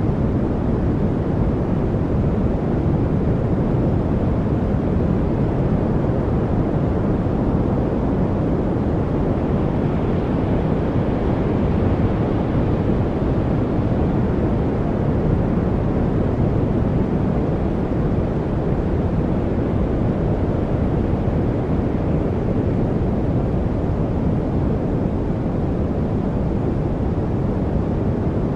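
Steady, unbroken noise, deep and full in the low range and dull at the top, with no birds, drips or other separate sounds in it: a continuous 'white noise' masking track, weighted toward the bass like brown noise.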